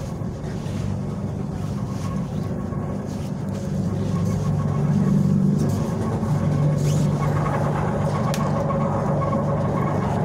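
Running noise of a regional electric train heard inside the passenger car: a steady low hum and rumble that grows louder about four seconds in.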